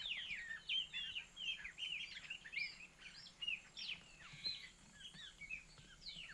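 Many small birds chirping at once: a dense chorus of short, high, mostly falling chirps.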